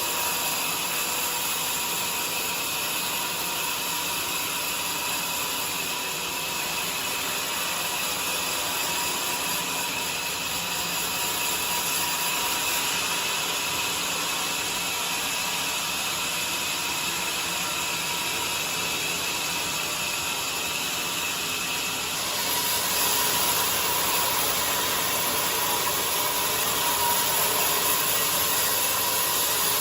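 Band sawmill running steadily: a constant mechanical noise with a whine. About three quarters of the way through it gets a little louder and brighter.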